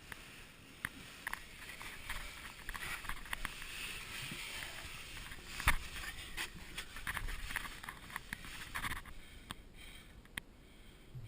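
Rustling and scraping with scattered small clicks and one sharper knock about halfway through, typical of someone moving through a tight cave passage.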